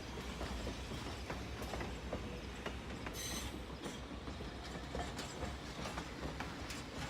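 Train rolling slowly on jointed track, with a steady low rumble and many irregular clicks and creaks from the wheels and cars. A brief high-pitched hiss or squeal comes about three seconds in.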